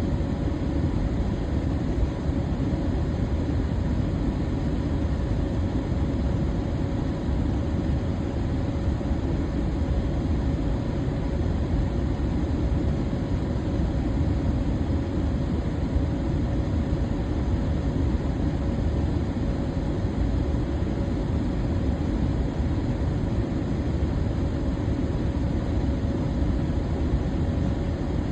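Electric fan running steadily: an even, low-pitched rushing noise with two faint steady tones running through it.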